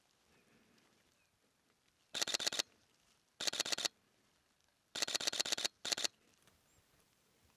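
Sony A7R V camera shutter firing in continuous bursts: four short runs of quick clicks at about ten a second, each under a second long, with pauses between.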